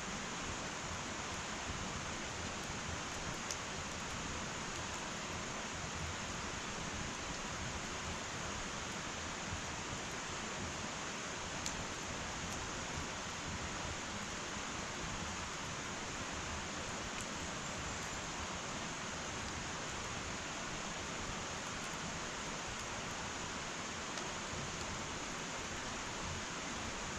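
Wood fire burning in an irori hearth: a steady hiss with a few sharp pops and crackles.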